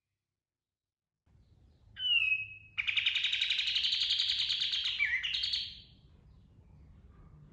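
Kapas tembak bulbul singing: one short whistled note, then a fast, dense rattling trill of about three seconds with a brief dip in pitch near its end.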